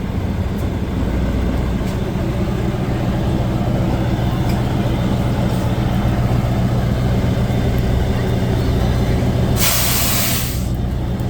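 Heavy off-road truck engine running steadily, with a burst of air hiss lasting about a second near the end, like an air brake releasing.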